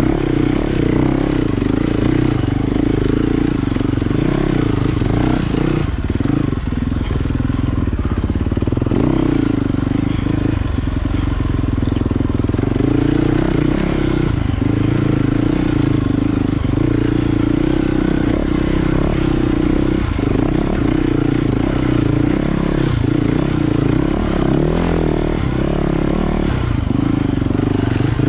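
Enduro dirt bike engine running hard with the throttle constantly opening and closing, its note rising and dipping without a break.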